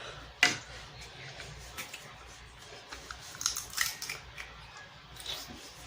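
Close-up eating sounds of a seafood boil: chewing and mouth smacking with scattered sharp clicks, the loudest about half a second in.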